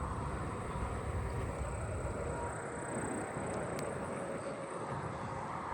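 Steady outdoor background rumble of distant traffic, with a faint, steady high-pitched insect drone above it.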